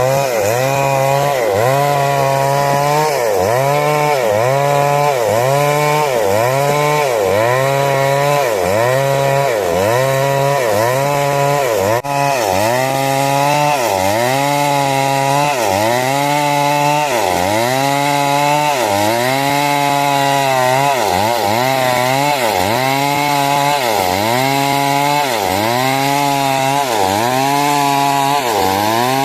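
A 382 two-stroke chainsaw cutting wood at high revs. Its engine pitch dips and recovers about once a second as the chain is worked into the cut, which is typical of sawing timber into small square battens.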